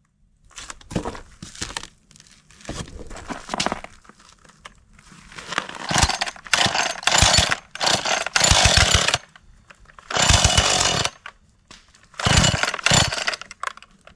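A power saw cutting in about five separate bursts, from half a second to over three seconds long, stopping completely between cuts.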